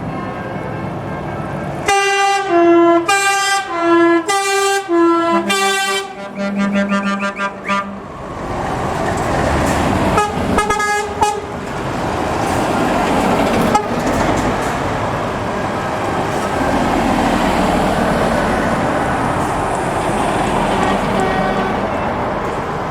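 A truck's musical air horn plays a quick tune of stepped notes, followed by a lower held horn note. A heavy truck then drives past with a steady engine and tyre noise, and another short horn blast sounds partway through.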